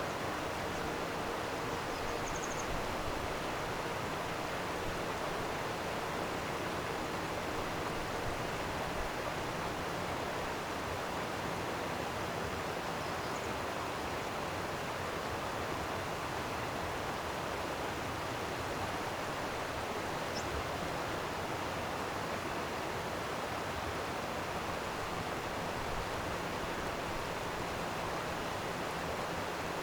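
Steady rush of flowing water, an even, unbroken noise, with a few faint, brief high chirps over it.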